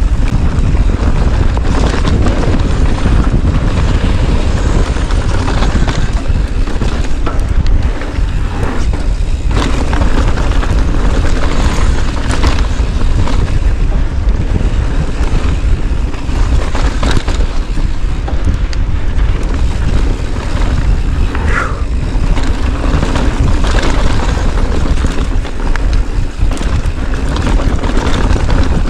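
Steady, loud wind buffeting an action camera's microphone while it moves fast, with a brief high squeak about two-thirds of the way through.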